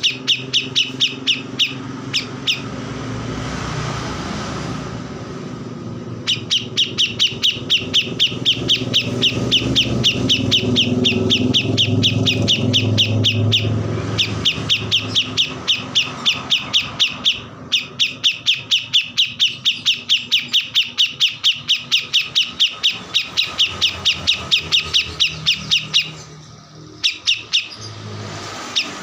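A small songbird, the 'kores' bird used as training song, singing long runs of fast repeated sharp chirps, several a second, broken by short pauses a few seconds in and near the end. A low hum runs beneath it, loudest in the first half.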